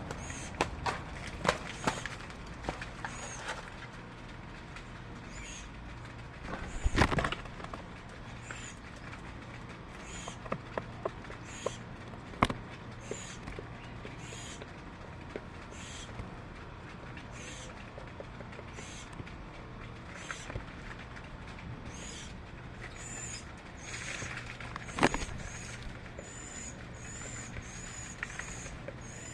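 A bird giving short, high chirps about once a second, coming faster, about twice a second, near the end. Scattered sharp clicks and knocks come in between, the loudest three about 7, 12 and 25 seconds in.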